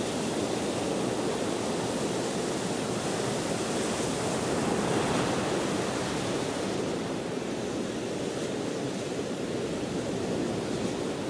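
Ocean surf washing ashore in a steady rush, with wind blowing over it; the wash swells a little about four to five seconds in, then eases slightly.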